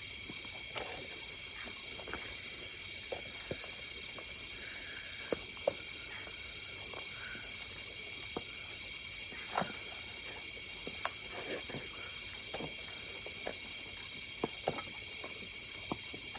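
A steady, high-pitched chorus of crickets, with scattered light taps and clicks from a knife cutting paneer into pieces.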